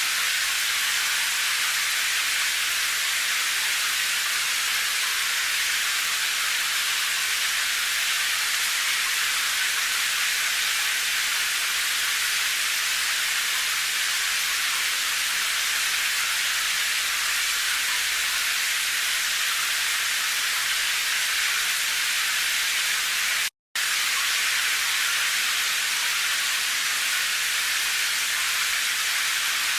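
Steady rain, an even hiss with no separate drops standing out, which cuts out for an instant about three-quarters of the way through.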